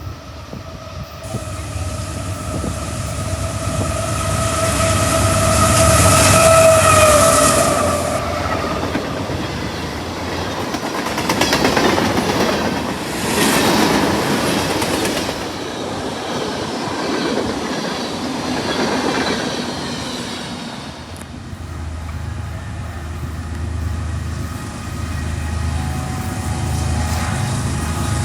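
CSX freight train coming in and passing. Its horn sounds for the first eight seconds and grows louder as the train nears. Then the wheels clatter and rush over the rails, with a low locomotive-like rumble near the end.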